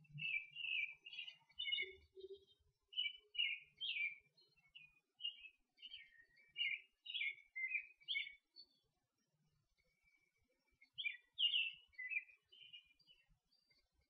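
Birds singing: quick runs of short, high chirps, with a pause of about two seconds before a last cluster of notes.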